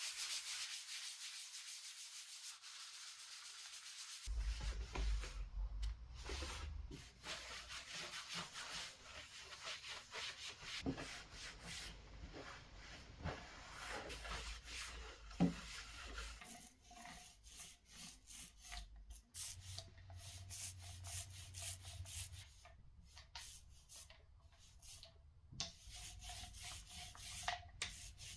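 Plywood being sanded, with irregular rubbing strokes of abrasive on wood. The sound changes character about four seconds in, from a steady hiss to rougher strokes with a low rumble.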